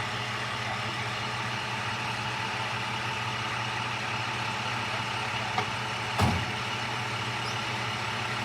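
International truck engine idling steadily, with a short knock and then a louder low thump about six seconds in.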